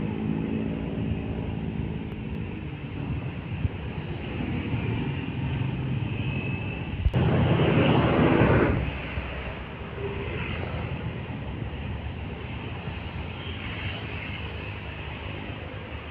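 Road traffic: heavy trucks' diesel engines running as they pass, with a sudden, louder rush of noise lasting about a second and a half near the middle.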